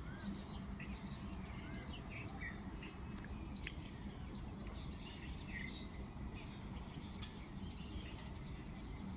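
Faint, scattered chirps and short calls of small birds over a steady low background noise.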